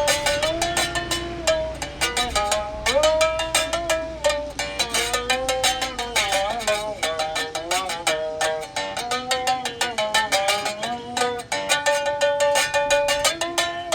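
Single-string berimbau, homemade with a car hubcap as its resonator and electrified with a pickup, its wire struck in a fast, steady rhythm while the pitch shifts and bends between notes.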